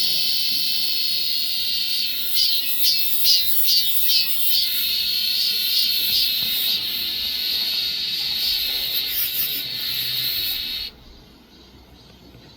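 Cicada singing: a loud, high-pitched buzz that throbs in a run of quick pulses for a couple of seconds, then holds steady, and cuts off suddenly about eleven seconds in.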